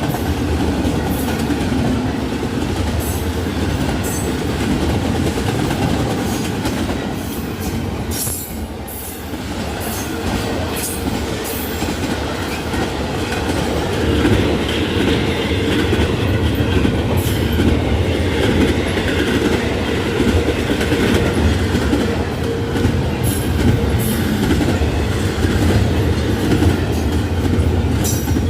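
Intermodal freight train rolling steadily past, its cars' wheels rumbling and clicking on the rails.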